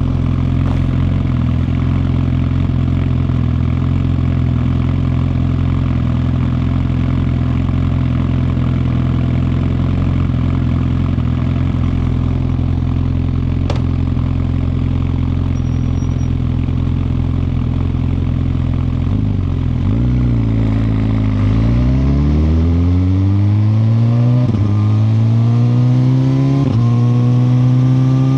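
2021 Suzuki GSX-R1000R's inline-four engine holding a steady low note, likely idling, then pulling away about two-thirds of the way in. The revs rise and drop back with each of several quick upshifts as the bike accelerates.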